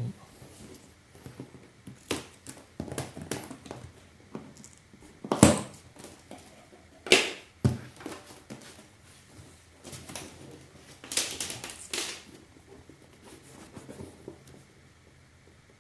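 Product packaging being handled and opened: irregular rustling, crinkling and knocking of cardboard and plastic, with louder sharp scrapes or thumps about five, seven and eleven seconds in.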